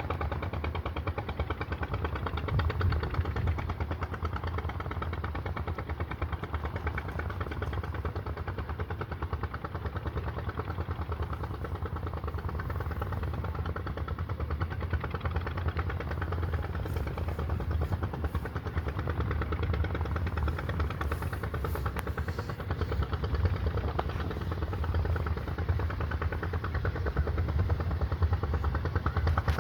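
Small single-cylinder engine running steadily with a fast, even chugging beat.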